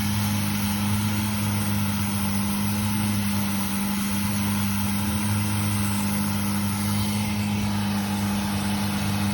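Boat engine running steadily at a constant speed: an even, low drone.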